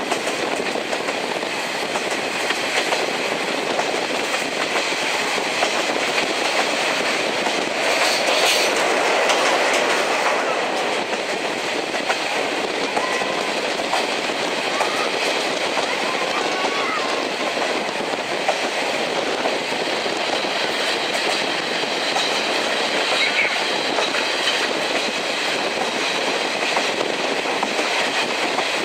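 Passenger train hauled by a steam locomotive running along the track, heard from inside the coach: a steady rolling rumble with the wheels clicking over the rail joints, swelling slightly for a moment about a third of the way through.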